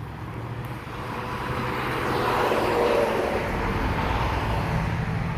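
A semi truck driving past, with engine and tyre noise swelling to a peak about three seconds in and then easing slightly.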